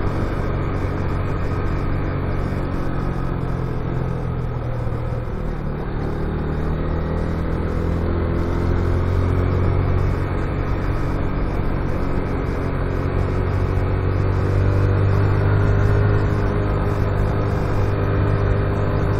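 Motorcycle engine running steadily on the move. Its pitch shifts about five seconds in, then slowly rises.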